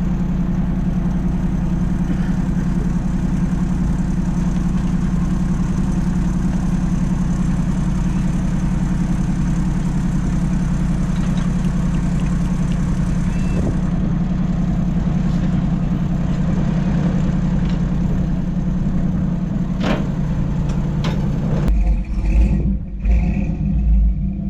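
Motor vehicle engine running steadily with a low, even drone. A few low thumps come in near the end.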